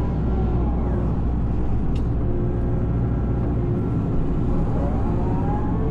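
Excavator's diesel engine running steadily, with a faint rising whine near the end.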